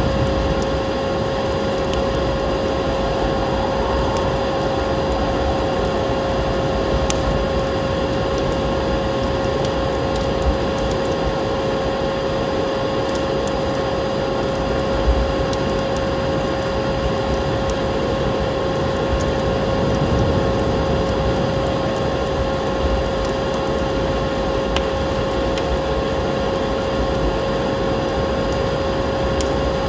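Wood fire crackling in a fireplace, with scattered sharp pops over a steady noisy bed and a constant hum-like tone.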